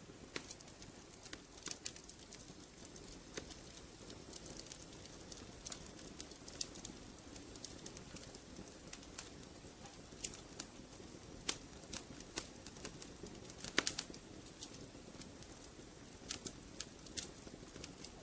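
Wood fire crackling in a fireplace: irregular sharp pops and snaps over a soft steady rustle, with a cluster of louder pops about fourteen seconds in.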